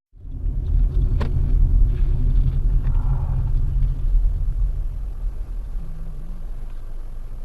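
Low, steady rumble of a car on the road as picked up by a dash cam, with a single sharp click about a second in; the rumble eases off over the last couple of seconds.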